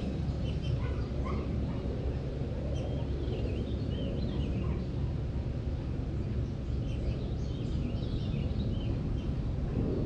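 Several birds chirping and calling in short, scattered notes, busiest about three seconds in and again near the end, over a steady low rumble.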